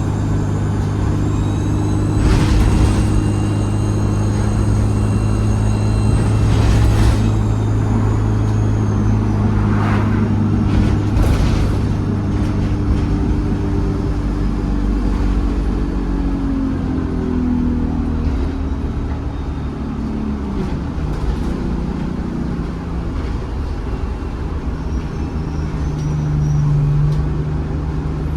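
ADL Enviro 200 bus's diesel engine running under the cabin floor, with a high turbo whistle that holds steady and then falls away about nine seconds in. After that the engine note wavers and shifts pitch, with a few short knocks and rattles from the body.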